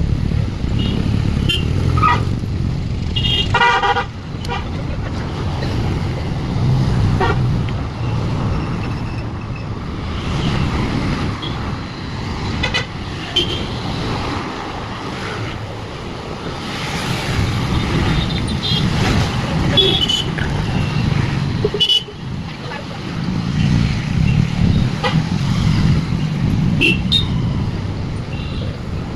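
Busy road traffic with motor vehicles running close by, and short horn toots several times, the clearest a little over three seconds in.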